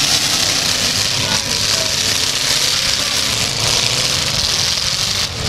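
Eight-cylinder demolition derby cars' engines running, steady and loud over a constant hiss.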